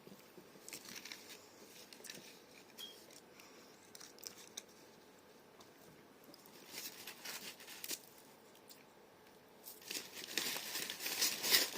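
Takeaway food packaging being handled: intermittent rustling and crinkling with small clicks, in short patches that grow louder near the end.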